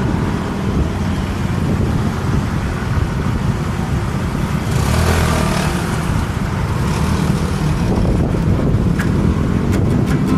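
Road traffic heard while riding along a busy road: a steady low rumble of passing cars and motorbikes, with a louder rush about five seconds in and a few sharp clicks near the end.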